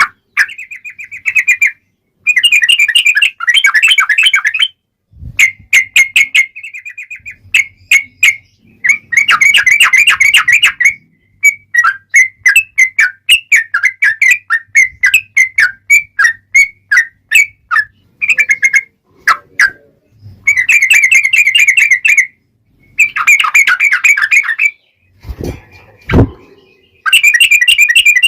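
Yellow-vented bulbul (trucukan) singing in long runs of rapid bubbling, chattering notes, phrase after phrase with short pauses between them. Two brief low thuds come near the end.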